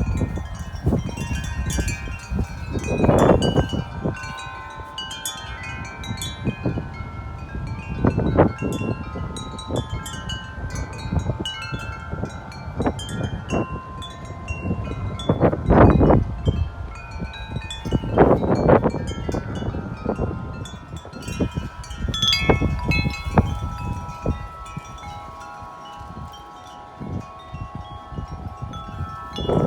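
Several large tubular wind chimes ringing nonstop in strong, gusty wind, many notes overlapping. Wind buffets the microphone in gusts, strongest a few seconds in and twice past the middle.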